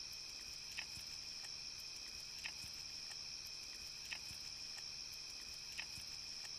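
Faint, steady high-pitched tone or trill, with a soft tick about every second and a half.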